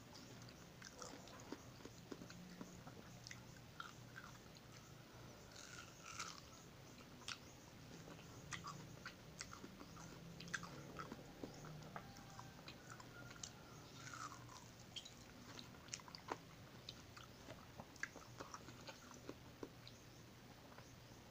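Quiet, close-up mouth sounds of a person eating soft ripe mango: scattered wet smacks and clicks of biting and chewing.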